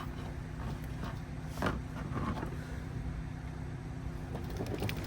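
Steady low hum of an idling vehicle engine, with a few short clicks and scrapes from work on the car's oil drain plug.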